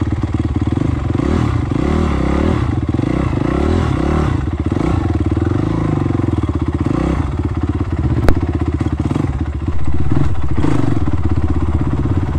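Honda CRF250X dirt bike's single-cylinder four-stroke engine running, its revs rising and falling again and again. A sharp click about eight seconds in, and the engine louder from about ten seconds.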